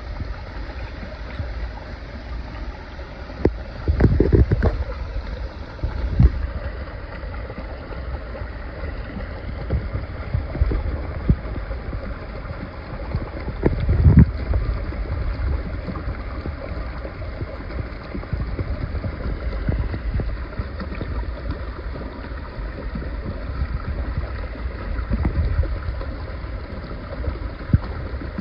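Stream water running, with wind rumbling on the microphone and a few dull bumps about 4 and 14 seconds in.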